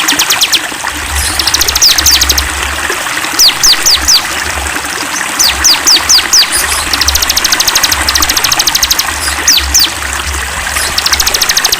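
Songbirds singing: fast, high trills of about a second each, alternating with groups of three or four quick descending whistled notes, over the steady rush of a running stream.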